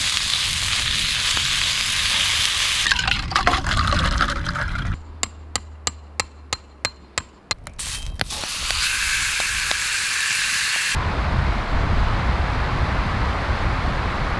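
Wagyu fillet steak sizzling over a campfire, heard in several short cuts. In the middle, a quieter stretch holds about nine sharp clicks, a few a second.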